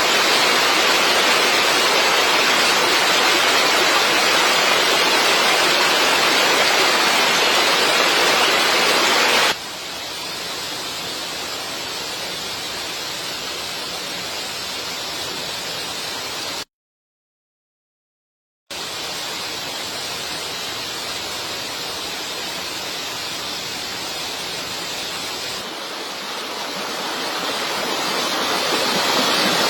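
A steady rushing noise like rain or running water, in edited pieces: loud for about the first third, then suddenly quieter, then cut to dead silence for about two seconds, then back, swelling near the end.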